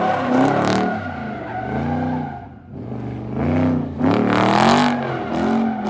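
A car engine revving hard up and down over and over, about once a second, with tires squealing as the car slides in a stunt.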